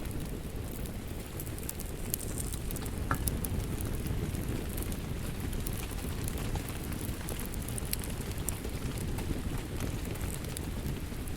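A wood fire crackling with scattered sharp pops over a steady hiss of rain.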